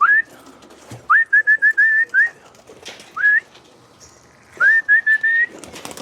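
A person whistling to call pigeons in to the loft: a high whistled note that sweeps up, then a quick string of short notes, given in three bursts with a single note between them.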